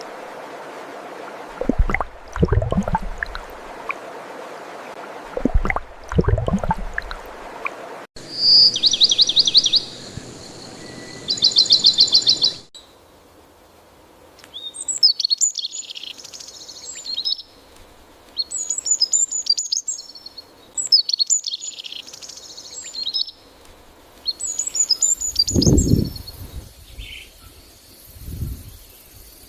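Birdsong in a few spliced outdoor recordings: two rapid high trills, then repeated bursts of high chirping phrases over a soft background hiss. A few deep, low sounds are heard at the start and near the end.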